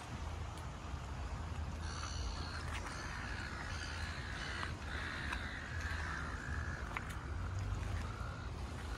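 Harsh, drawn-out bird calls, crow-like caws repeated from about two seconds in, over a low steady rumble.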